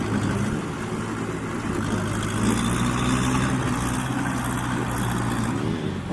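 Dirt bike engine running at a steady speed, its pitch rising slightly about halfway through and dropping away near the end.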